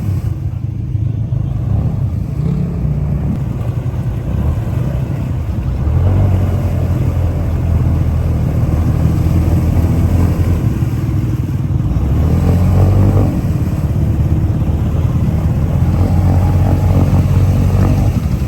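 Off-road vehicle engine running hard, its pitch rising and easing several times as the throttle changes.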